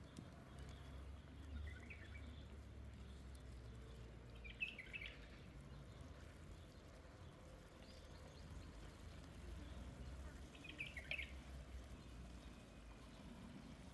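A bird chirping in three short bursts, spaced a few seconds apart, over a faint low steady rumble.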